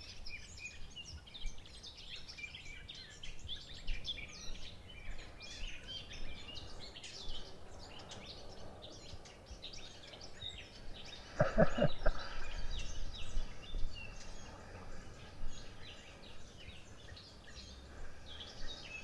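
Many small birds chirping and singing over a light background hiss, with one brief voice-like sound a little past the middle.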